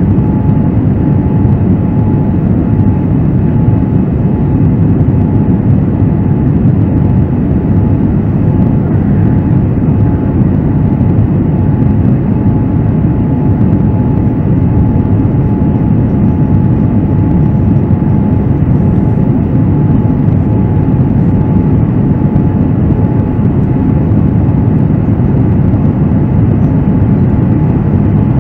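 Cabin noise inside a Boeing 787-9 airliner: a steady low rush of engine and airflow noise with a faint steady tone above it, holding level throughout.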